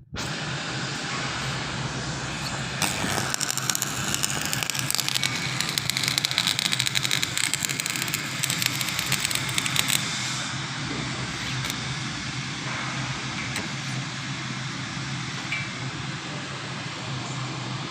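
Electric arc welding: a steady crackling sizzle from the arc over a low hum, harsher and louder from about 3 to 10 seconds in.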